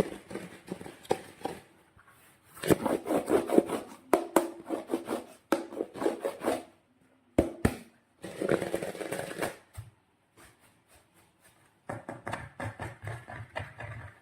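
Hand-handling noises: bursts of scraping and rapid crackling clicks in spells of a second or two with short pauses, and two sharp clicks about halfway through.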